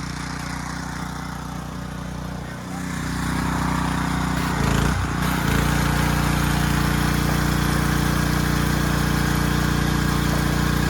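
Pressure washer running steadily and spraying water. It grows louder about three seconds in and again near the middle.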